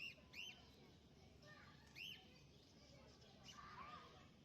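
Pet parrots chirping faintly: a few short, high chirps in the first two seconds, then softer calls near the end.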